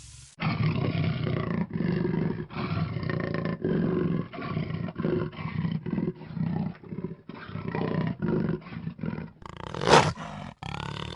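A big cat roaring and growling in a run of short, choppy calls, then a different, louder call near the end.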